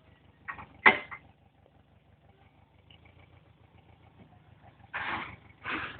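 DTC 640 forestry tractor's diesel engine idling with a low, even chug. A single sharp knock comes about a second in, and two short bursts of noise come near the end.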